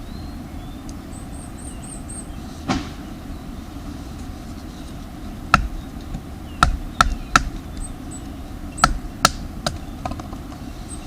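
Sharp, irregular cracks and knocks, one a little before three seconds in and then about eight more scattered through the second half, over a steady low rumble. A short run of faint high chirps comes near the start.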